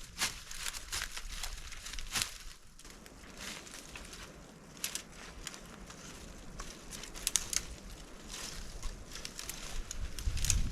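Irregular rustling and crackling, with sharp snaps scattered through it; a low rumble comes in near the end.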